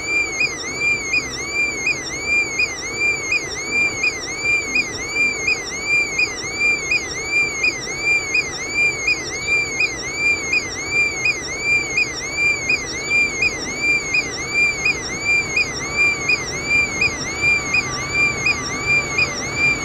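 Railway level-crossing warning signal: a high electronic tone that swoops up and down about twice a second, repeating steadily over a low background noise.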